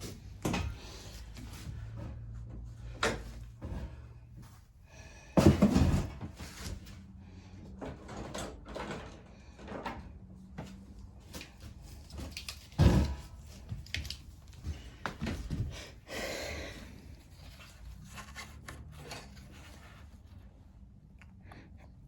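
Scattered knocks, clicks and scrapes of tools and small parts being handled, with two louder thuds about five and a half and thirteen seconds in and a short scraping rasp a little after sixteen seconds.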